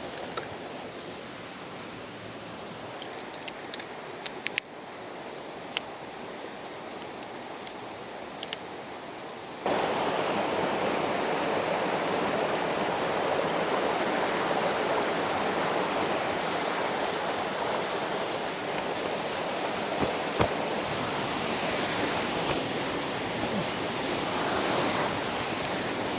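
Rushing river water, a steady noise that gets suddenly louder about ten seconds in. A few light clicks and knocks come in the first half.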